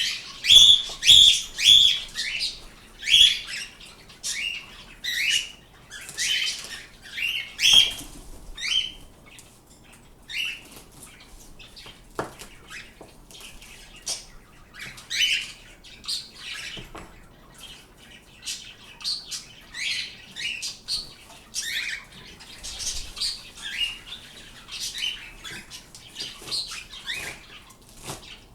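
Pet birds calling with many short, repeated chirps and squawks, loudest and quickest in the first several seconds, then sparser and quieter.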